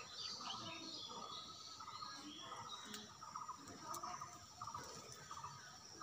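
Small birds chirping in short, repeated calls.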